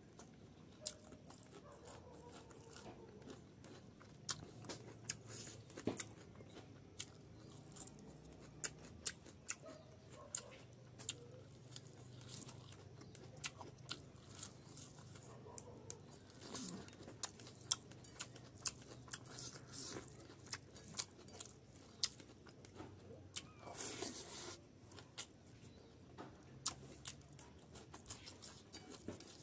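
Close-up eating sounds: chewing and crunching a raw green pod with rice and pork fat eaten by hand, with many sharp wet mouth clicks and smacks throughout. A brief louder noisy burst comes about three quarters of the way through.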